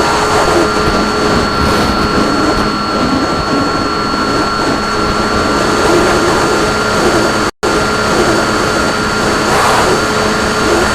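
RC plane's motor and propeller running at a steady speed in flight, a constant whine over heavy rushing wind noise, as picked up by the onboard camera's microphone. The sound cuts out for an instant about two-thirds of the way through.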